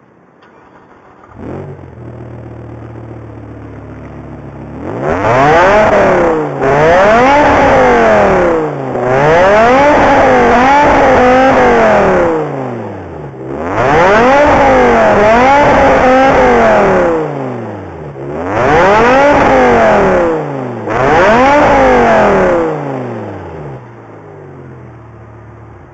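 BMW E60 M5's V10 exhaust, a Top Speed Pro-1 system with secondary cats and resonators deleted and an X-pipe, fires up about a second in and idles. It is then revved in about six free-revving blips, each rising and falling in pitch, before settling back to idle near the end.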